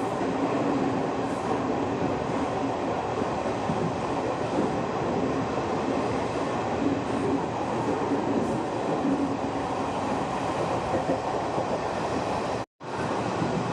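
Express passenger train running at speed: the steady noise of the coaches and wheels on the rails. The sound cuts out completely for a moment near the end.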